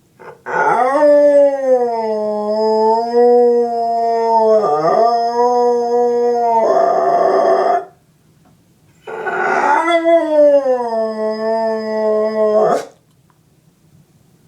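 Pit bull terrier howling: one long howl of about seven seconds with a brief catch near the middle, then a second, shorter howl that starts high and slides down in pitch.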